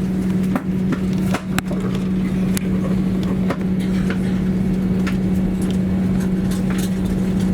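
Steady low hum and rumble inside an Airbus A321's rear cabin, with scattered light clicks and rattles.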